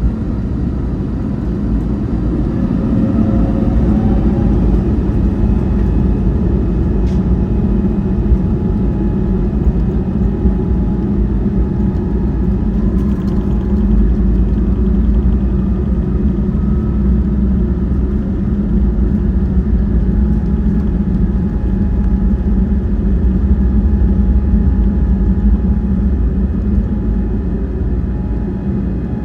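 Airbus A321neo's Pratt & Whitney PW1100G geared turbofans at high takeoff thrust, heard from inside the cabin as a loud, steady low rumble. An engine whine rises in pitch over the first few seconds, then holds steady.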